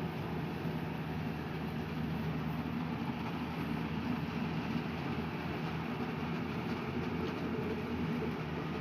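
Engine of rice-harvest machinery running steadily, an even low hum with no change in speed.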